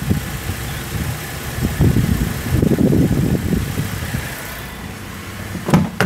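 Holden Commodore V6 engine running at idle, an uneven low rumble that swells in the middle. A short knock near the end.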